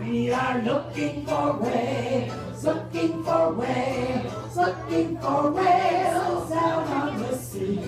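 A group of voices singing a song together in chorus, with musical backing.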